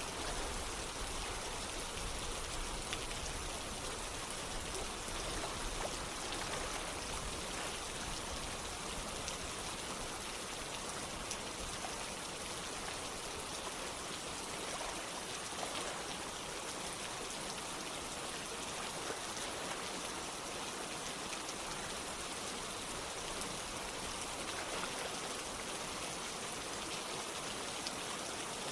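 Steady rain with scattered drops, over running water that sounds like a stream or small waterfall.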